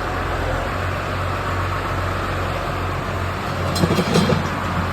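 Loader engine running steadily while it carries a heavy gearbox, with a few short knocks about four seconds in as the load is brought down onto the table.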